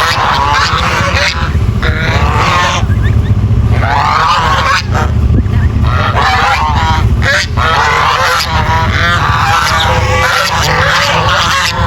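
Geese honking: a flock calling over one another in quick, repeated honks, with a steady low rumble underneath.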